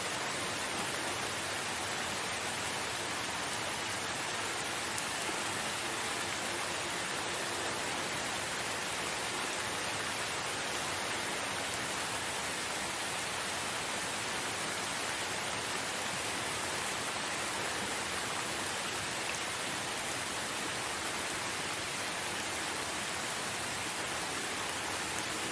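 Steady rain falling in a forest, an even hiss of rain.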